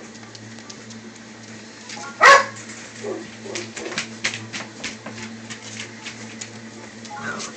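Great Pyrenees puppies: one loud bark about two seconds in, followed by a scatter of short clicks and small faint yips.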